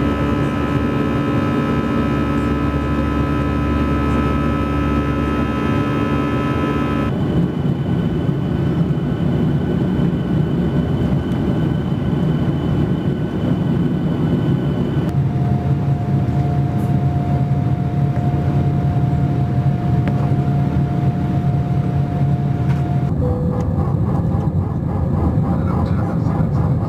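Airliner engines heard from inside the passenger cabin: a steady rush with a steady hum and whine on top. The pitch of the hum jumps abruptly three times, about seven, fifteen and twenty-three seconds in, as one flight's cabin sound cuts to another's.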